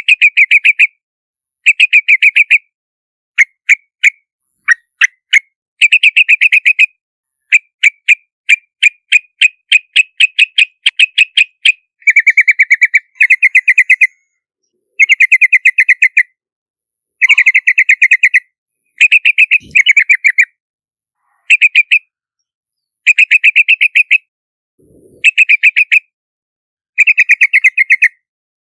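Yellow-vented bulbul calling: bursts of rapid, bubbly chattering notes about a second long, repeated with short pauses. Through the middle the notes come as a quicker run of separate short calls.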